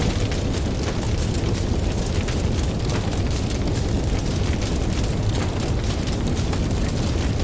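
Campfire crackling, with many small sharp pops over a steady low rumble.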